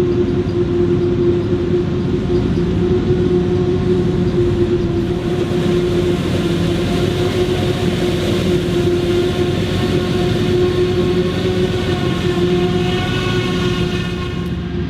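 Claas Jaguar 980 forage harvester with its V12 engine running steadily under load while chopping maize, a steady machine whine over the engine. Near the end a higher whining tone set rises above it for a couple of seconds.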